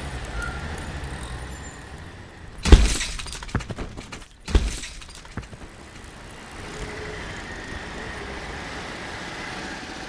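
A loud crash with a run of clattering after it, then a second heavy impact about two seconds later, over a low steady rumble.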